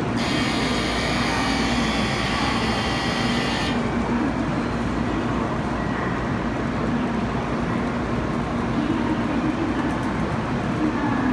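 Shinkansen train pulling out of the platform: a steady rumble and hum of the train moving off. A bright hiss runs for the first few seconds and cuts off suddenly.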